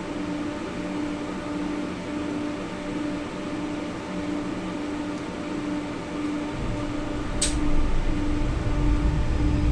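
Tram cabin interior: a pulsing electrical hum, about three beats every two seconds, over steady machinery hum. About two-thirds through, a low rolling rumble of the tram on the rails comes in and grows louder. There is one sharp click soon after.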